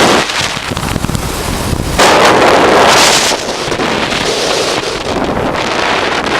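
Wind buffeting the microphone of a camera on a moving motorcycle. It comes in loud gusts right at the start and again from about two to three seconds in, with a steadier rush of air between.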